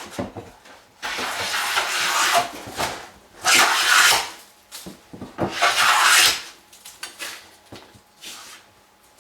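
Hand plane shaving wood in long strokes along a board: three strong strokes, then a shorter, lighter one near the end, with small knocks of the plane between them. The cut is being worked down toward a marked depth line.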